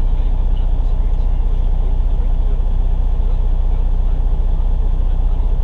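Semi-truck's diesel engine idling steadily, a low, even hum.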